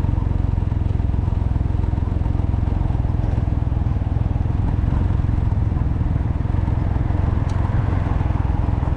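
Heavy wind buffeting on the microphone over the running engine of a Can-Am Ryker three-wheeler on the move.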